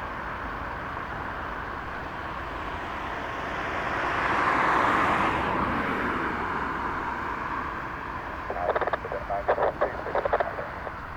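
Aircraft noise swelling as it passes close, loudest about halfway through, then dropping in pitch as it moves away. Near the end come short choppy bursts.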